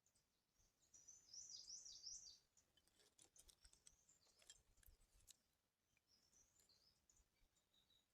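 Faint songbird song: a fast, high warbling phrase, then a run of sharp ticks, then more warbling near the end.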